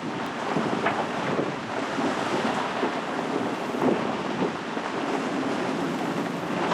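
Strong storm wind of around 30 knots buffeting the microphone, with choppy water and waves.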